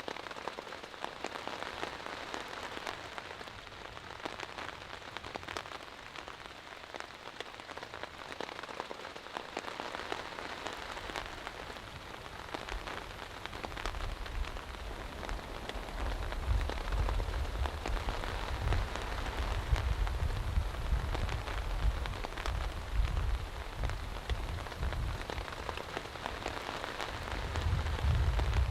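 Heavy rain falling steadily, a dense hiss of drops. From about halfway through, a deep low rumble builds underneath and swells again near the end.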